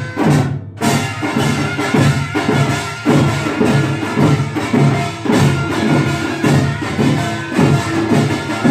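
Korean pungmul folk percussion playing a steady, loud beat of gongs and drums, with a brief break just before one second in.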